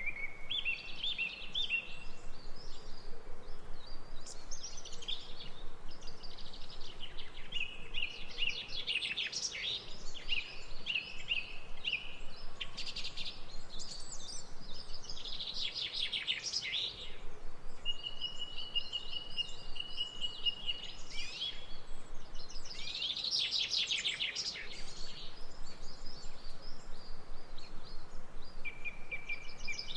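Several songbirds singing over a faint steady outdoor background, with rapid trills, chirped phrases and one long held whistle in the middle.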